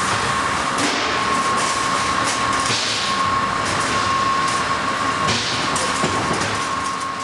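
Plasma torch of a CNC plasma cutting table running through sheet metal: a loud steady hiss with a constant high whine and crackling, dying away near the end as the cut stops.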